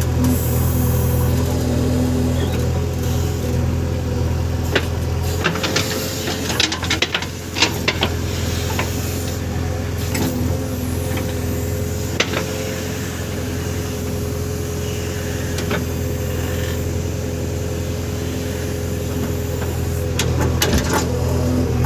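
JCB backhoe loader's diesel engine running steadily under working load, with a few sharp clanks and knocks about a third of the way in, in the middle and near the end.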